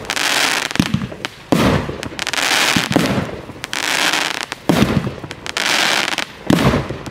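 Aerial fireworks firing in quick succession, about one shot a second. Each is a sharp bang followed by about a second of hissing, crackling spray as the stars and comet tails burst.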